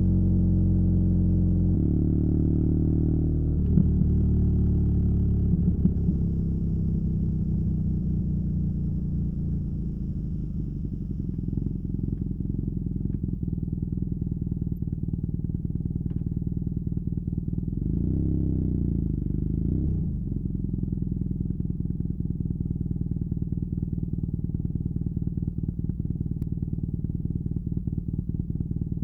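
BMW R nineT's boxer twin through a Competition Werkes slip-on exhaust, slowing with the engine note falling over the first several seconds, then settling to an even, pulsing idle. About two-thirds of the way through there is one short rev that rises and falls.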